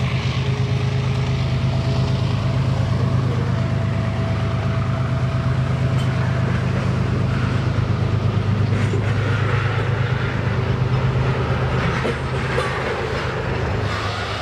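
Freight train rolling past: a steady low rumble of wheels and running gear, with a faint thin squeal in the first half.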